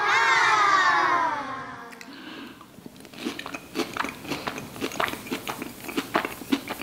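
A long vocal sound of delight falling in pitch, then a person crunching and chewing a mouthful of Rice Chex puppy chow coated in peanut butter, chocolate and protein powder, in short irregular crunches from about three seconds in.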